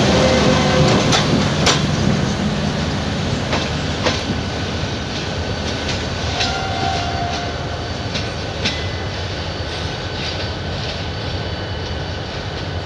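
Passenger train pulling out of a station: the coaches roll past with irregular clacks of wheels over rail joints and faint, thin wheel squeal, the sound slowly getting quieter.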